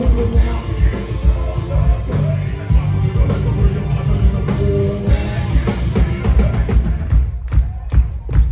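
Loud heavy rock music driven by a drum kit. About seven seconds in it breaks into stop-start hits with short gaps between them.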